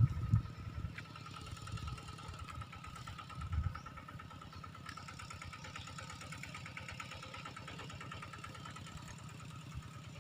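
A small engine running steadily with a fast, even low beat, with a thin steady high tone above it and a few louder low thumps near the start and about three and a half seconds in.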